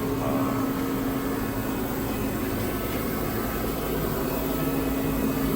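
Steady mechanical hum with a constant low tone.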